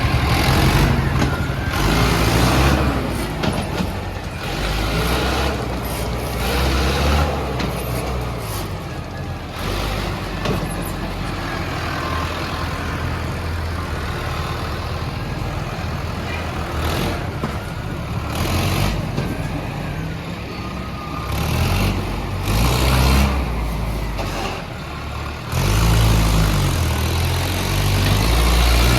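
Diesel tractor engine running, its pitch and loudness going up and down, loudest near the end.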